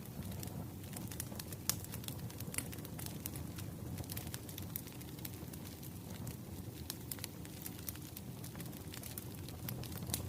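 Wood fire crackling: a steady low rumble of burning logs with frequent irregular sharp pops and snaps, one louder pop a little under two seconds in.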